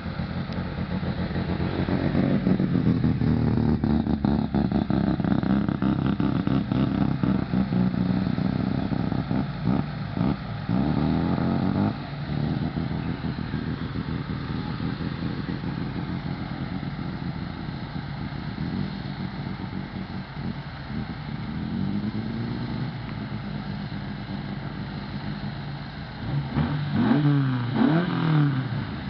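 Volvo 122S and Opel GT four-cylinder engines running at a drag-race start line. They are loudest and unsteady through the first dozen seconds, then settle to a lower steady run, with quick throttle blips, sharp rises and falls in revs, near the end.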